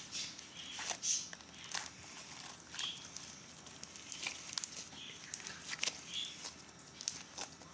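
Slime being squished and worked by hand, with irregular small wet clicks and pops.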